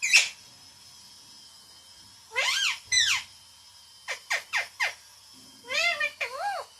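Pet green parrot giving shrill, arching calls and talking-style phrases in short bursts: a sharp call at the start, then a pair of phrases, a run of four quick calls, and two more phrases near the end.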